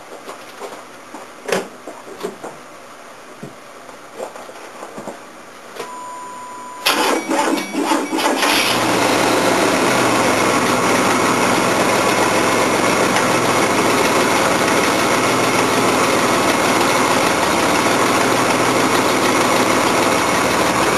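1987 GMC S15 pickup's engine, cold-started after sitting unused for over a year, on jumper cables: a few clicks and a short steady beep, then it cranks for about a second and a half and catches about eight seconds in. It then runs steadily, with an exhaust leak that the owner hears.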